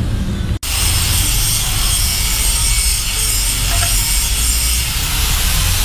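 Steady running noise of machine-shop machinery, with a faint high whine over a low rumble. The sound drops out for an instant about half a second in.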